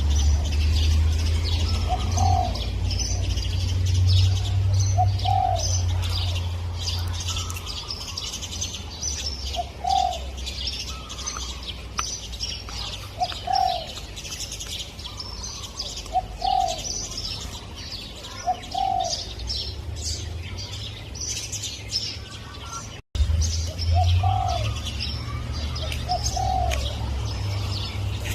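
Spotted dove cooing, short coos repeated every two to three seconds, over a dense chorus of high chirping from small birds. A low rumble runs under the first part, and the sound drops out for a moment about 23 seconds in.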